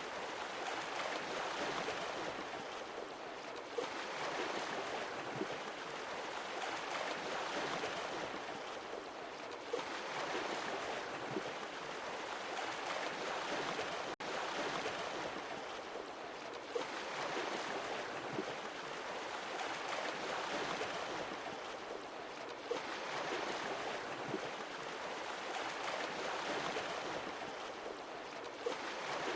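Sea waves washing in and drawing back, the hiss swelling and easing about every six seconds, with a brief tick at each swell.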